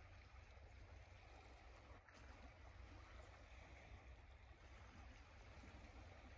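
Near silence: a faint, steady low rumble and hiss of outdoor ambience, with no distinct event.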